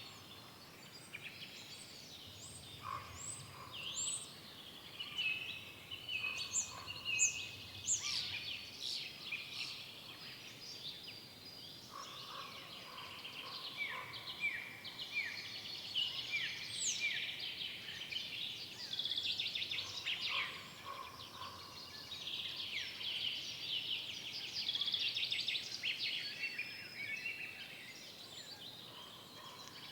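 Several forest songbirds singing at once: overlapping high chirps, trills and quick falling whistles, including a run of short falling notes repeated about once a second around the middle.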